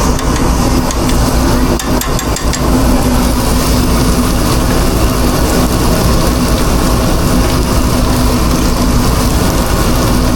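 Steady, loud machine drone with a constant hum, from the equipment running in a food truck kitchen, with a few light clatters about two seconds in.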